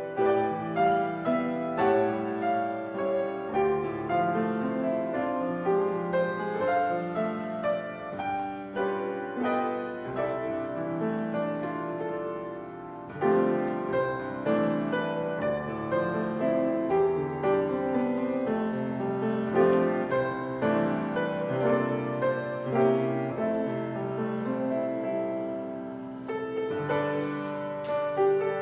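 Piano music: a piano playing a slow classical-style piece in overlapping chords and melody, softening briefly about thirteen seconds in before going on.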